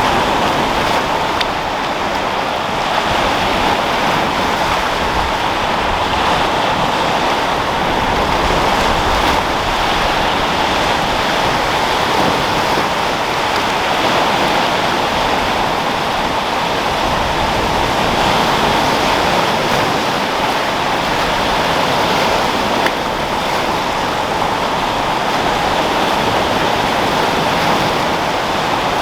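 Sea waves breaking and rolling against rocks with wind, a continuous steady wash of surf that swells and eases slightly.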